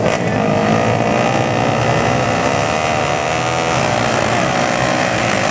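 Flat track racing motorcycles' engines running hard, the engine pitch wavering up and down.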